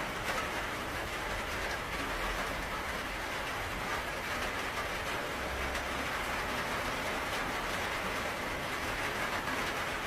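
Steady rainfall: an even hiss of rain with faint patter of drops.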